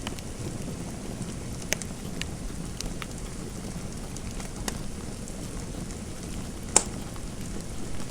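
Fireplace fire crackling: a steady low rumble of burning with scattered sharp pops, the loudest near the end.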